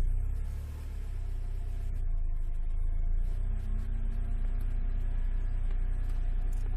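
Alfa Romeo 156 engine running with road rumble, a steady low drone; an engine tone rises a little about three seconds in and then holds.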